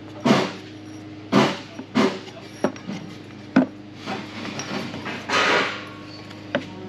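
Old truck horn sputtering in about five short, noisy spits as power is applied, the last a little longer, instead of sounding a note: its diaphragm is stuck.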